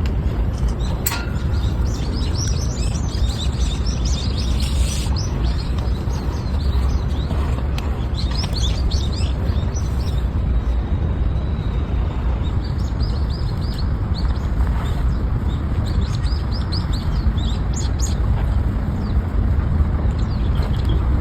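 Small birds chirping over and over in short, quick calls, over a steady low rumble.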